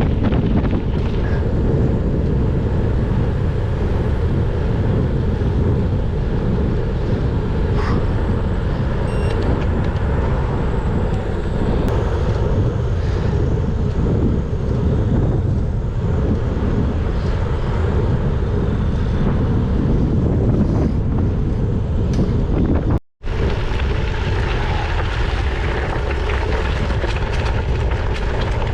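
Steady wind rush on a GoPro's microphone while riding a bicycle, over the low rumble of the tyres rolling on the road. The sound cuts out for a split second a few seconds before the end.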